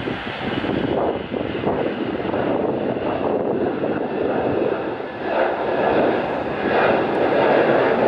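Jet airliner's engines running at takeoff power, a loud, dense rush that grows steadily louder.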